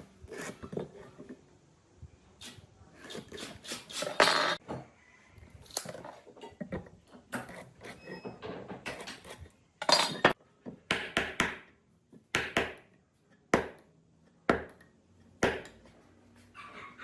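Irregular knocks, clinks and short rubbing strokes of hand work with tools and wood, with the loudest knocks about four seconds in and again about ten seconds in.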